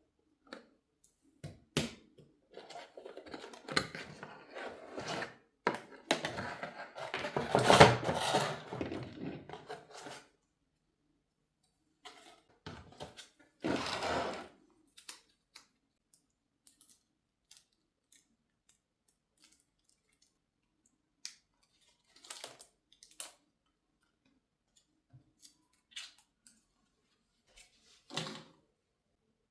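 Household objects being handled at close range: several seconds of rustling and scraping, a short burst a few seconds later, then scattered light clicks and taps.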